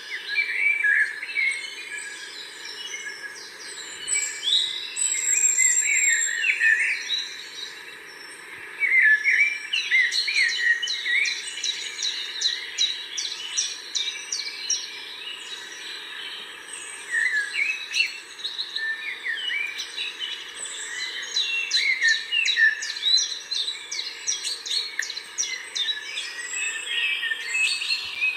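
Several birds singing and chirping at once, a busy stream of quick, short notes that rise and fall, over a faint steady background hiss.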